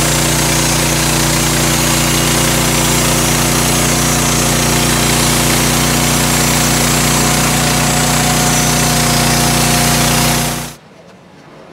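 Gas-engine-powered portable bandsaw mill running steadily at a constant speed, most likely sawing through the log. The sound cuts off suddenly near the end.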